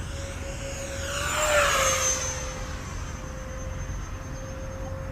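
Electric ducted fan (70 mm EDF) of an FMS Yak-130 RC jet whining as the model makes a fast pass. The rushing whine swells to a peak about a second and a half in, its pitch dropping slightly as it goes by, then settles to a steadier whine.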